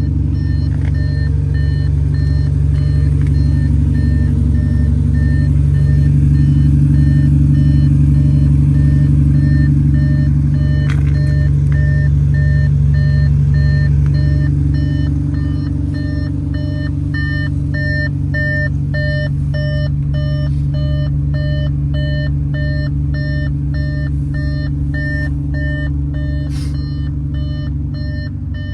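Audi SQ5's 3.0 V6 biturbo diesel engine running steadily, a little louder for a while in the middle, with a regular series of short electronic beeps about twice a second, typical of the car's parking-sensor warning.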